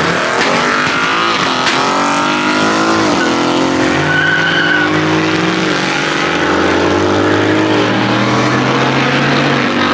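A loud car engine revving hard, the revs sweeping up and falling back about three and six seconds in, then held steady until they drop off near the end, over the hiss of tyres squealing. Two sharp pops sound in the first two seconds.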